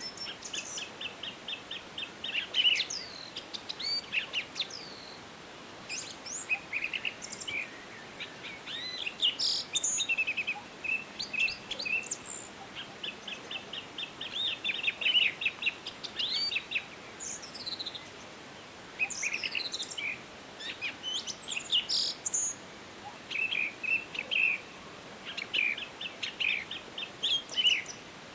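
Several songbirds singing and calling together: overlapping rapid trills and high chirps, over a faint steady hiss.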